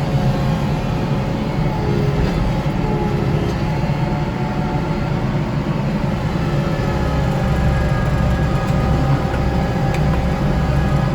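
Kubota tractor's diesel engine running steadily with its front-mounted snow blower working, a constant deep drone.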